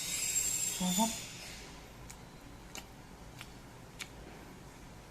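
A person eating a mouthful of pita bread dipped in chicken curry: a short hum of approval about a second in, then a few faint mouth clicks while chewing.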